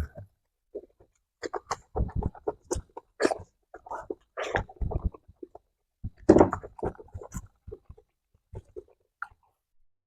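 Close-up chewing of roasted cicadas: crunching and mouth smacking in irregular bursts of short clicks.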